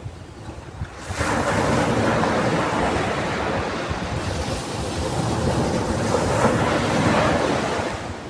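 Ocean waves breaking on a sandy beach: a wave crashes about a second in and its surf washes on, easing off near the end, with some wind on the microphone.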